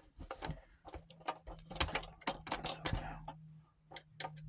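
Quick, irregular clicks and taps of a Baia 8mm Reviewer film viewer being handled and worked open, about a dozen in a row, over a steady low hum.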